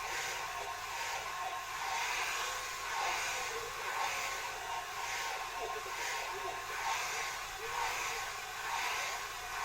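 Hand-held hair dryer blowing steadily, its rushing sound swelling and fading about once a second.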